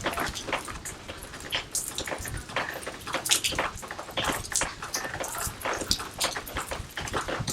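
Water splashing and dripping into a garden fish pond in irregular spatters, from rain and a water fountain.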